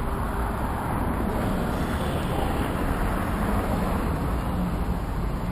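Steady vehicle and road noise: a continuous rushing rumble with no distinct events.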